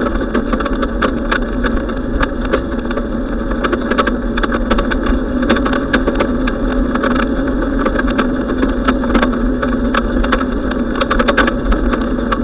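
Steady rolling noise of a bicycle ride: a continuous hum of wind and tyres, with many quick clicks and rattles scattered throughout.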